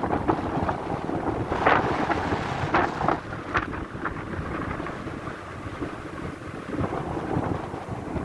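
Strong wind buffeting the microphone aboard a boat in rough weather at sea: a constant low rumble with several louder rushing gusts about two to four seconds in.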